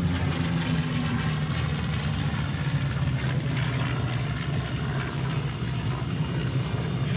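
Chance Vought F4U Corsair's 18-cylinder Pratt & Whitney R-2800 radial piston engine and propeller in flight, a steady low drone whose pitch eases down slightly about a second in.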